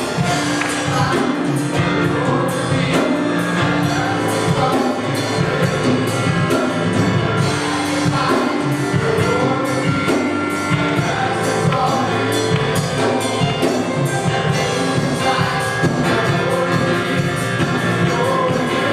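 Live gospel worship music: singers over a band with a steady beat.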